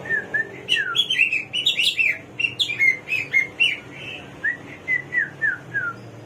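Samyong (garuwa) songbird singing a varied run of clear whistled notes, many slurring downward, in quick phrases.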